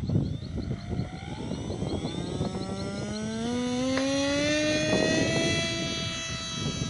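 Small model aircraft motor and propeller spinning up, a rising whine that climbs in pitch for about four seconds and then holds steady, over low rumbling wind noise.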